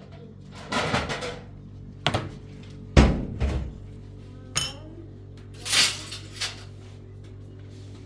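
Pots and dishes clattering: a series of knocks and scrapes, the loudest about three seconds in, over steady background music.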